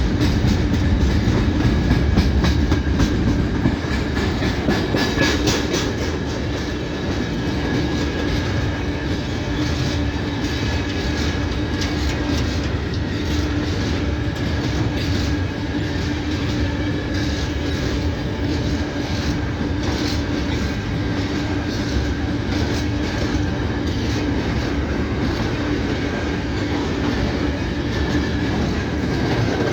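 A train's wheels running on the rails, clicking over the rail joints, with a steady hum.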